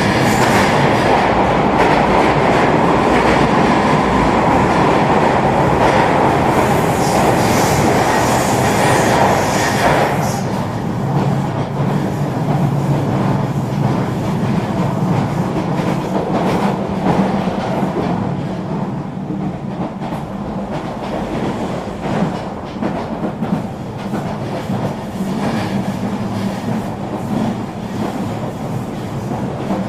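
Eurobahn regional train running on the rails: a steady rumble of wheels on track with a hiss, louder for the first ten seconds or so, then easing to a quieter rumble with scattered clicks over the rail joints.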